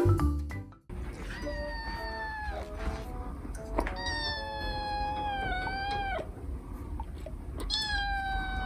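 Scottish Fold kitten meowing three times, each a long drawn-out cry, while kept in a playpen.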